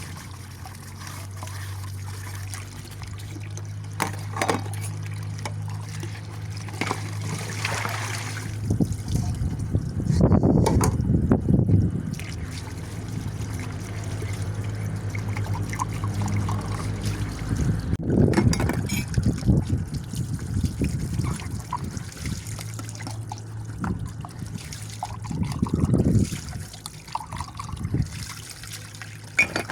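Water running and trickling during hand-washing of dishes, with louder splashing swells three times, under a steady low hum.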